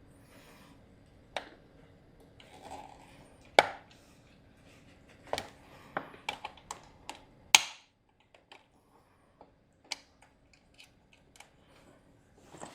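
Scattered clicks, taps and small knocks of hands working the plastic and metal parts of an LED shop light's housing and wiring, with sharper clicks about three and a half and seven and a half seconds in. A faint low hum in the background cuts off with the louder click.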